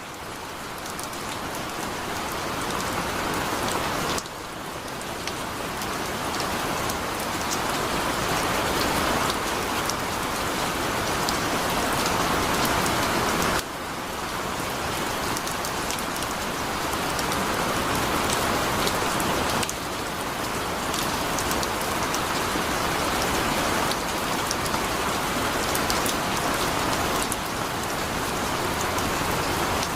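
Heavy rain falling steadily, a dense hiss full of fine droplet ticks. It swells up over the first few seconds and drops abruptly in level three times, about 4, 14 and 20 seconds in.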